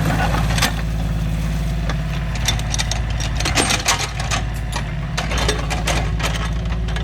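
Small excavator's engine running steadily, with many short clanks and knocks over it, thickest in the middle.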